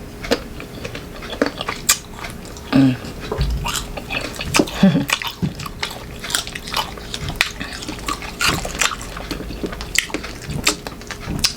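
Raw green mango being bitten and chewed close to the microphone: a run of irregular crisp crunches and wet chewing clicks.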